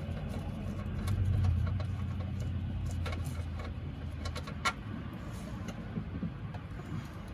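Low rumble of a motor vehicle that swells about a second in and then slowly fades, with a few sharp clicks.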